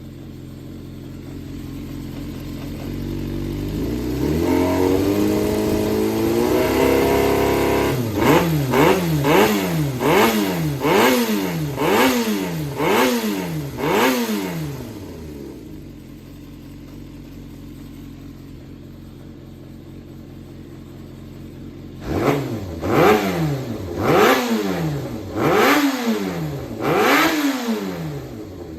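Yamaha XJR400 (4HM) air-cooled inline-four engine running: it idles, revs rise slowly over a few seconds, then it is blipped sharply about once a second some seven times, drops back to a steady idle, and is blipped about six more times near the end. It runs without abnormal noise, which the seller takes as a strong, high-compression engine in top condition.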